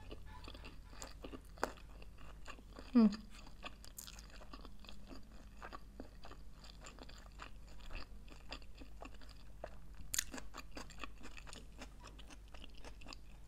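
Close-up chewing of a mouthful of vegetarian sushi roll (nori, rice and vegetables), with many small wet, crunchy ticks. About three seconds in there is one short voiced sound that falls in pitch.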